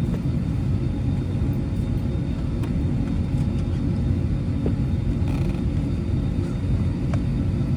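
Steady low rumble of an Airbus A320's cabin noise while the aircraft is on the ground before takeoff, with a few faint clicks.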